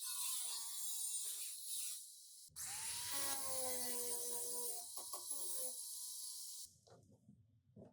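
A high-pitched power tool runs with a whine and a hissing edge, stops briefly, then starts again, spinning up, and runs for about four seconds before cutting off.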